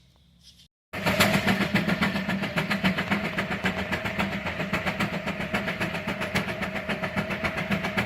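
Antique tractor engine running at a steady speed with a fast, even beat. It starts suddenly about a second in, after a moment of silence.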